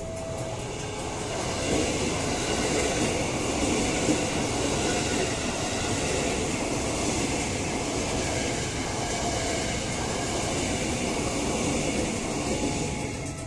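A train passing over a level crossing: a steady rumble and rattle of wheels on rails that swells about a second in and drops away near the end. The crossing's warning bell rings faintly under it.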